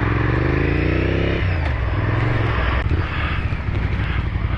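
Honda Firestorm's V-twin engine running as the motorcycle rides, with low wind rumble on the microphone. The engine note dips and rises, fades out about a second and a half in, and the sound gets a little quieter about three seconds in as the bike slows.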